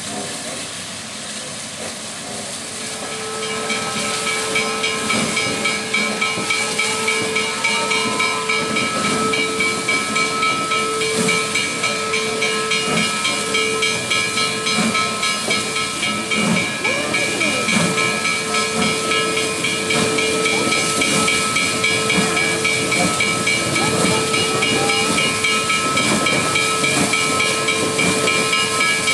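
Steam locomotive No. 734, a 2-8-0 Consolidation, venting steam in a steady loud hiss. About three seconds in it swells, and a sustained ringing pitch runs through it from then on.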